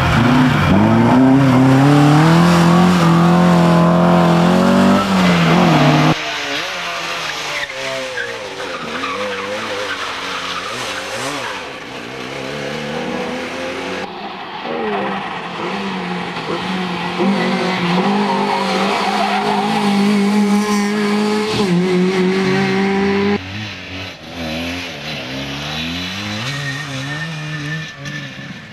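Rally car engines revving hard, the pitch rising and falling through the gears, across several short clips cut together; the first clip, about six seconds long, is the loudest.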